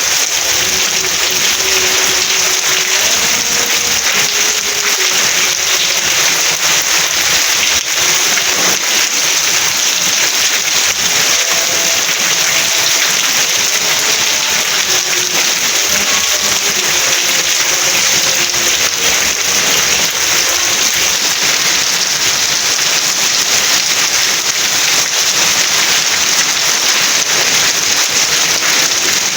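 Steady, dense rainfall, an even hiss that does not let up, with a faint slow melody of low notes beneath it.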